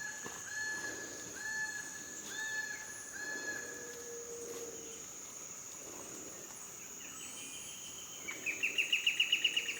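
Rainforest wildlife calling: a steady high insect whine, over it a short call repeated about once a second for the first few seconds, then a fast pulsed chirping trill that grows louder near the end.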